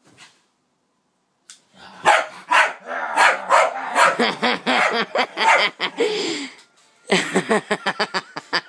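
Dog barking in rapid, repeated barks, excited at a key held out to it. The barking starts about two seconds in, breaks off briefly near the end and then starts again.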